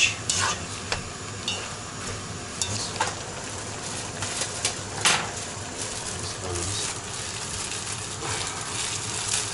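Fish and vegetables sizzling steadily in hot oil in a cast-iron kazan. A spatula scrapes and clinks against the pot a few times, mostly in the first second.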